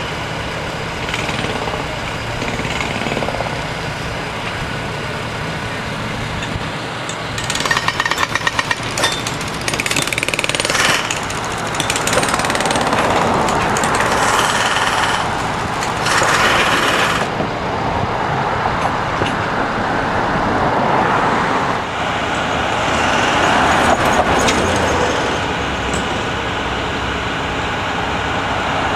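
Heavy track-repair machinery running, with a burst of rapid hammering about a quarter of the way in and another short, harsh burst about halfway through.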